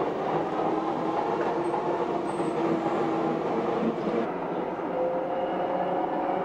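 Docklands Light Railway train running along its elevated track, a steady rumble with a faint whine in it. About four seconds in the sound changes abruptly to the steadier running noise heard on board a moving DLR train, with thin steady tones.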